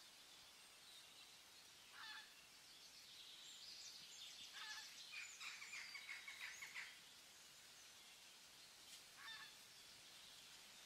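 Faint bird calls over a steady low hiss: a short call about two seconds in, a fast chattering run from about four to seven seconds, and another short call near nine seconds.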